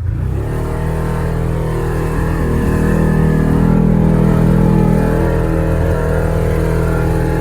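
Side-by-side UTV engine running under load while driving, its note swelling louder about two seconds in and easing back slightly near the end.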